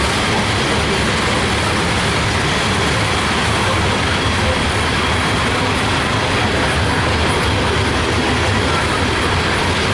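Loaded coal train rolling past at a steady speed: an unbroken rumble and clatter of steel wheels on the rails.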